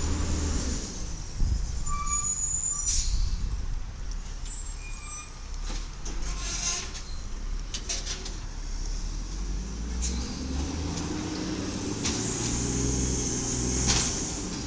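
Garbage truck's engine running: it winds down in the first second and revs up again from about ten seconds in. Short hisses of air from the truck's brakes come around three seconds in and again near the end.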